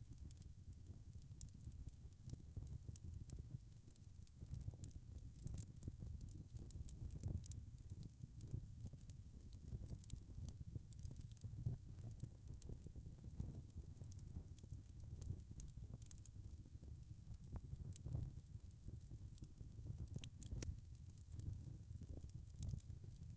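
Wood fire crackling: frequent small pops and snaps over a low, steady rumble of burning.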